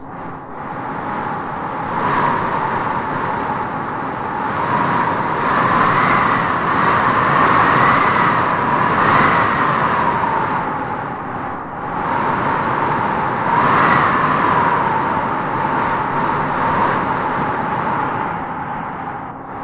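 Wind howling in gusts: a continuous rush with a moaning whistle that swells and rises in pitch several times, loudest through the middle and again about three-quarters of the way in.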